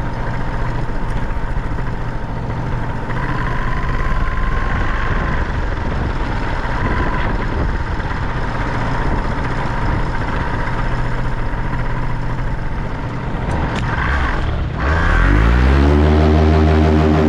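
Paramotor engine idling under heavy wind buffeting on the microphone, then throttled up about 15 seconds in: its pitch sweeps up quickly and settles into a steady, louder high-power drone.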